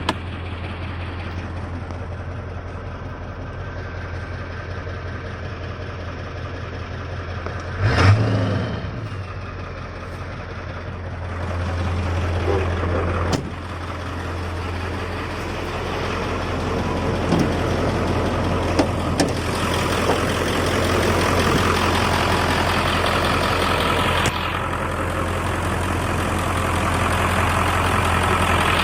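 Diesel truck engine idling after a cold start. A sudden loud burst comes about eight seconds in, and the running grows louder through the second half.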